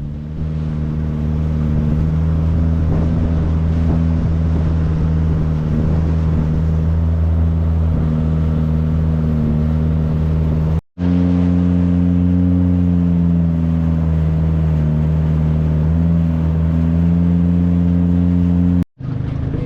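Motorboat engine running steadily at a constant speed, close and loud. It breaks off abruptly twice, about eleven seconds in and near the end, and runs slightly higher in pitch after the first break.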